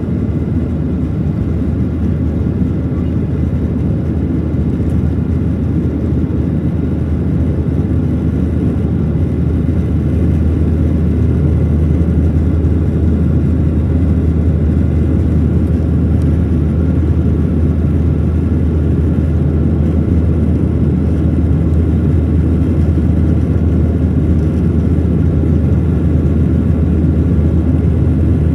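Steady cabin roar of a Boeing 737-700 in flight, heard from a window seat: the CFM56-7B turbofan engines and the rush of air along the fuselage, with a deep hum under the noise. It grows a little louder about a third of the way in.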